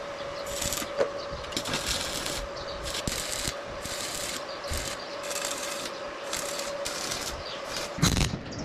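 Hand abrasive work on metal, rubbing back and forth in even strokes about twice a second, with a faint steady tone behind it.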